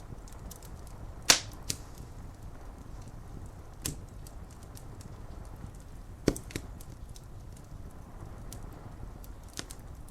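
Wood fire crackling, with a few sharp pops among many small crackles, the loudest just over a second in. Beneath it runs a steady low hiss of rain.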